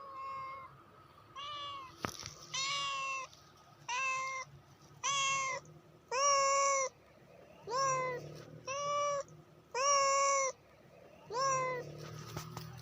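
Domestic cat meowing over and over, about ten meows in a row at roughly one a second.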